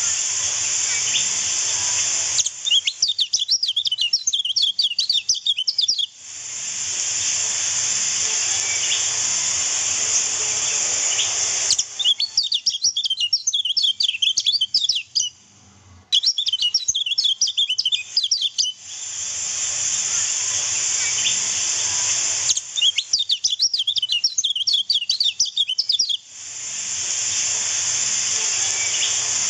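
Kecial kuning white-eye song: four runs of rapid, high chirps, each lasting three to four seconds, alternating with a steady hiss of running water.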